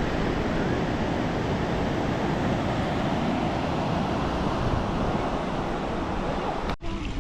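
Steady rushing of wind and surf, with wind buffeting the microphone; it cuts off abruptly near the end.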